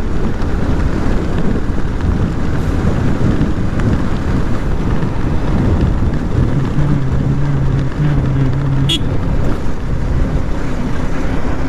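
Wind rushing over the microphone while riding a Yamaha R15 V3 motorcycle, with the bike's single-cylinder engine running steadily underneath and its tone coming through more clearly about halfway in. A brief click near the end.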